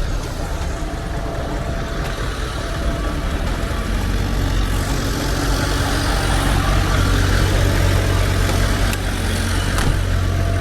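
A motor vehicle's engine running steadily, a low hum with a broad hiss over it that grows slightly louder about halfway through.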